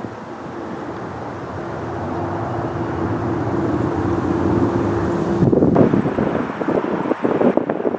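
A vehicle's steady rumble growing louder, then wind gusting on the microphone from about five and a half seconds in.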